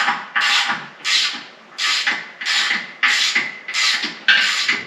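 Rhythmic rasping strokes, about eight of them at roughly two a second, of a hand tool worked back and forth against a surface.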